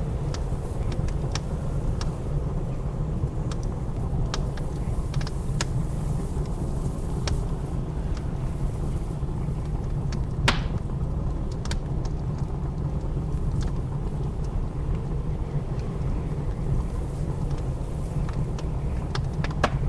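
Wood fire crackling in a fireplace, with irregular sharp pops, one louder pop about halfway through, over a steady low rumble of blizzard wind.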